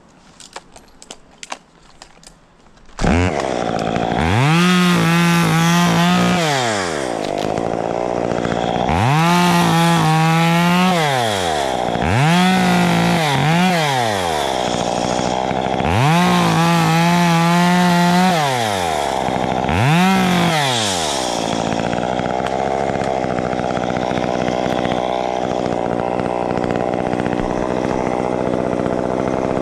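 A few light clicks, then a Stihl chainsaw engine starts about three seconds in. It is revved up and back down five times, then settles to a steady idle.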